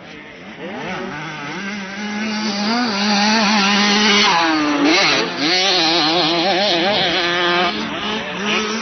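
Motocross bike engines revving on the track, their pitch rising and falling with throttle and gear changes. The sound gets louder over the first few seconds, as if approaching.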